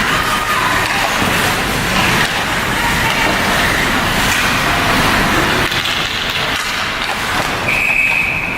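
Steady ice hockey rink noise: a loud, even rush of skating and arena sound. Near the end, one high, steady whistle blast lasting about a second.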